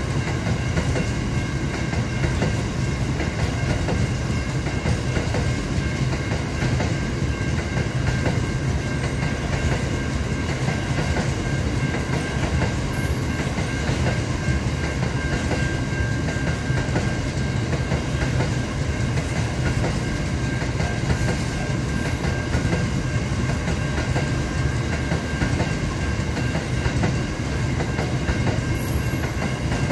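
Aurizon minerals freight train rolling past: a continuous steady rumble of loaded wagons' wheels on the rails, with a faint steady whine above it.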